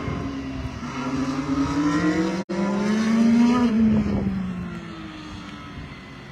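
IndyCar's twin-turbocharged V6 racing engine at speed: its pitch rises and falls through the gears, loudest about three and a half seconds in, then fades as the car pulls away. The sound breaks off for an instant about two and a half seconds in.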